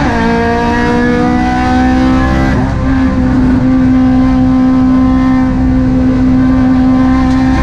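Honda Civic Type R FD2's 2.0-litre K20A inline-four engine under way on track. Its note drops sharply at the start, sinks slowly in pitch for about two seconds, changes again, then holds a steady pitch for the last few seconds.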